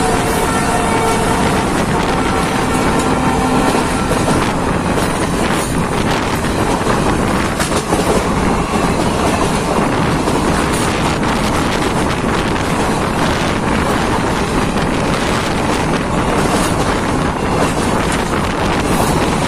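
A passenger train's coaches rush past at close range with a loud, steady rumble and scattered clicks of the wheels on the rails. Wind buffets the microphone. A steady tone fades out over the first few seconds.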